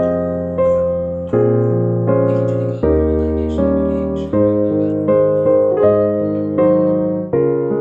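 Background piano music: slow chords struck about once or twice a second, each note left to ring and fade.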